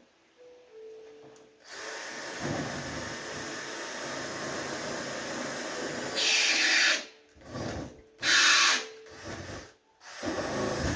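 Power drill boring pilot holes. One long run of about five seconds grows louder near its end, then the drill runs in a few short bursts.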